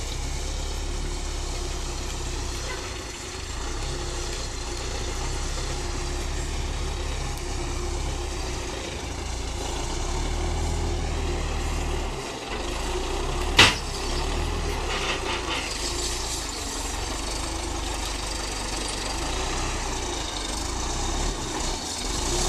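Tractor engine running steadily under a heavy sugarcane load, with one sharp impact a little past the middle.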